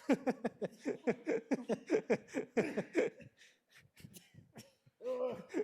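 A person laughing: a quick run of 'ha-ha' pulses, about four a second, each dropping in pitch, for about three seconds, then a short voiced sound near the end.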